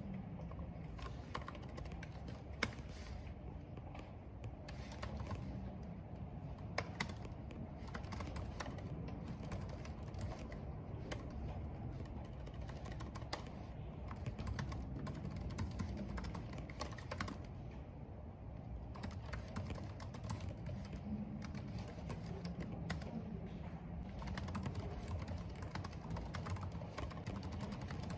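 Computer keyboard typing in irregular runs of keystrokes, over a steady low rush of wind and rain.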